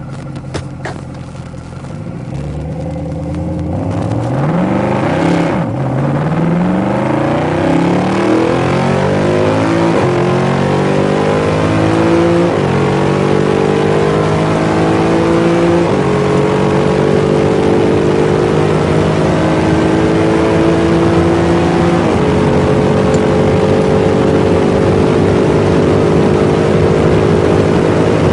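A sports car's engine accelerating hard through the gears. Its pitch climbs, then drops at each upshift, and the shifts come further apart as it reaches the higher gears, with rising road and wind noise.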